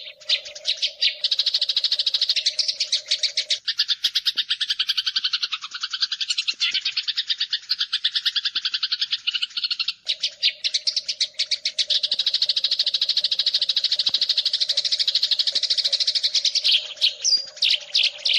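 Eurasian tree sparrows (burung gereja) squabbling and fighting: a dense, rapid, nonstop chatter of harsh chirps, briefly thinning about ten seconds in.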